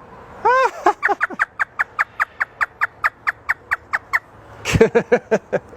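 African grey parrot imitating a hysterical laugh. It gives one arched note, then a fast run of short ha-ha calls about five or six a second, and a few louder calls near the end.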